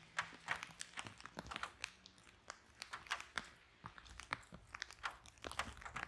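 Wood fire in a fireplace crackling and popping: many sharp, irregular snaps several times a second over a faint low rumble of flame.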